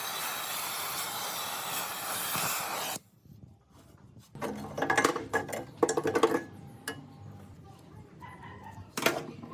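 A steady hiss that cuts off suddenly about three seconds in, followed by a run of clattering knocks and one sharp knock near the end.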